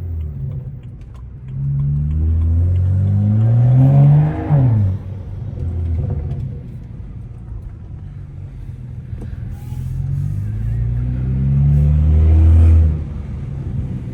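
BMW 335i's N55 turbocharged straight-six with a straight-piped exhaust, accelerating hard twice: the engine note climbs for a few seconds, then drops sharply as the throttle is lifted, the second pull near the end.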